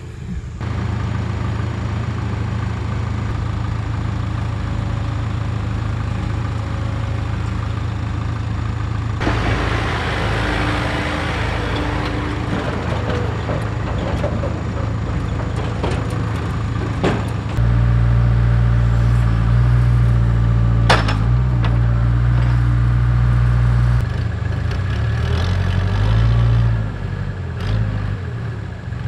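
Diesel tractor engine running steadily while moving a load, growing louder for several seconds past the middle before easing back. A couple of sharp knocks can be heard over it.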